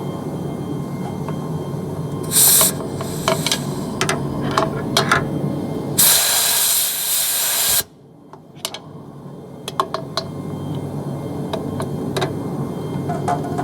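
Compressed air hissing from an air chuck at a truck tire's valve stem: a short hiss, then a longer, louder one of nearly two seconds that cuts off suddenly, with metal clicks of the chuck and tools between.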